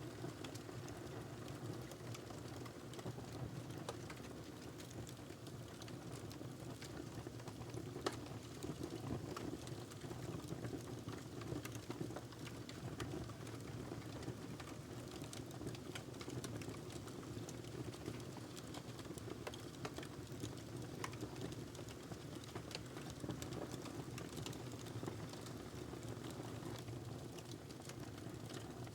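Wood fire burning in a fireplace: a steady low rush with scattered small crackles, and a sharper pop about eight seconds in.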